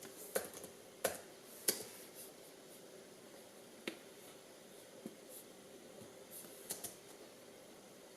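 Spinning gyroscope giving a faint steady hum, with sharp irregular clicks scattered through it, several close together at the start and a few more later.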